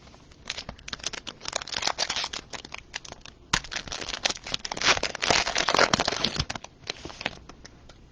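Plastic packaging crinkling and crackling as trading cards are handled, a dense run of quick crackles that starts about half a second in, is loudest in the middle and dies away near the end.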